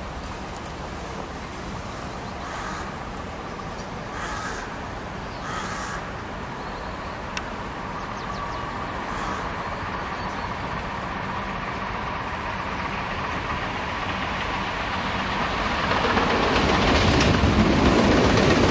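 Locomotive-hauled electric passenger train approaching on the rails, a steady rumble that grows much louder in the last few seconds. A crow caws three or four times in the first half.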